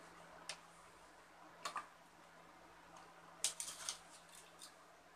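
Scattered light clicks and taps over a steady low hum, with a quick cluster of clicks about three and a half seconds in.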